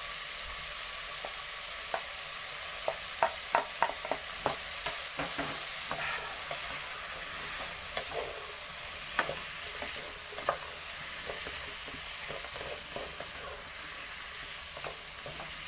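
Diced pork, potato, onion and garlic sizzling as they fry in a nonstick pot, stirred with a wooden spoon. There are sharp knocks and clicks of the spoon against the pot, bunched about three to five seconds in, with a few more later.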